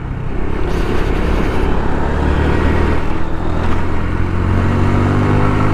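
Motorcycle engine running at road speed under steady wind and road noise, its pitch climbing slowly from about halfway through as it accelerates.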